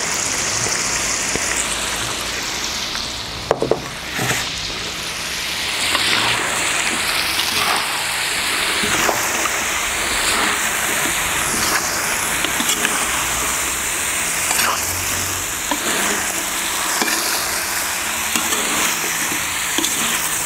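Duck, onion, carrot and sweet pepper sizzling in hot oil in a kazan, with a few sharp knocks about four seconds in. Then they are stirred with a slotted metal spoon, the sizzle swelling and falling back every second or two.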